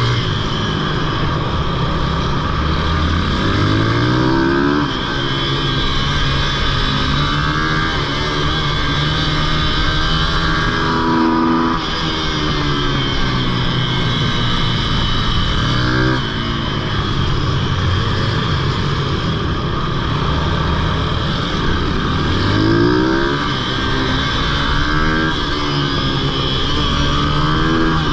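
Pitbike's small single-cylinder engine running hard on a kart track. It rises in pitch as it accelerates out of the corners and drops off sharply when the throttle is closed, several times over.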